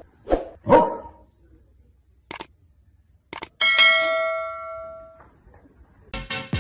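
A dog barks twice in quick succession. About three and a half seconds in, a single bell-like metallic ding rings out and fades away over a second and a half, with a few sharp clicks before and after it.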